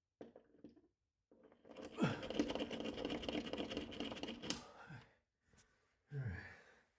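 A rapid mechanical rattle of fast clicks over a steady whine, lasting about three seconds, followed shortly after by a brief falling voice sound.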